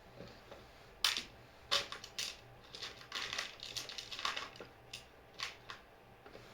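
Irregular clicks, clatters and scraping of small hard objects being handled, starting about a second in and dying away near the end.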